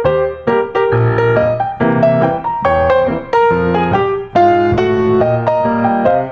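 Background piano music: a run of single notes struck in quick succession, each fading before the next, over low bass notes.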